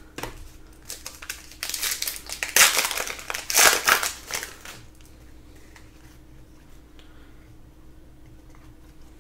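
Crinkling and crumpling of a foil trading-card pack wrapper being handled, in a run of crackly bursts that die away about five seconds in.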